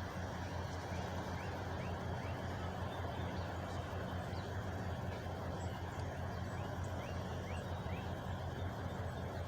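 Truck engine idling steadily, with a bird giving short rising chirps over it, in runs a few seconds in and again near the end.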